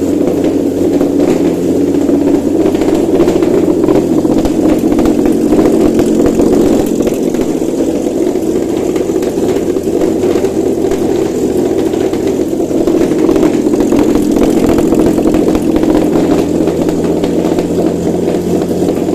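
Lexus IS350's 2GR-FSE 3.5-litre V6 engine running steadily on a test stand.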